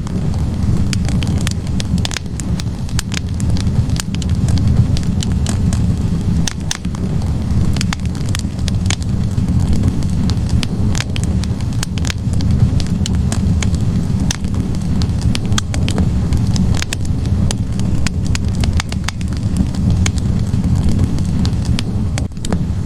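Log fire in a fireplace crackling: frequent sharp pops and snaps of burning wood over a steady low rumble.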